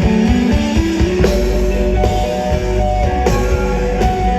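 Live rock band playing an instrumental passage: electric guitars and bass with a drum kit, the drums hitting about once a second from about a second in.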